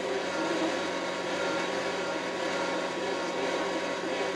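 Kioti RX7320 tractor's diesel engine running steadily under load, heard from inside the closed cab as an even drone with a few steady tones.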